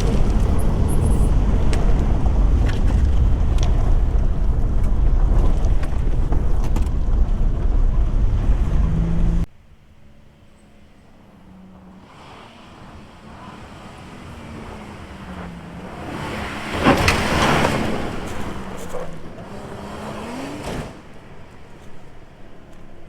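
Holden Rodeo prerunner being driven off-road: first a loud, deep rumble of the vehicle on the move, then after a sudden cut an engine whose pitch rises and falls, growing louder to a peak about seventeen seconds in as the truck comes past.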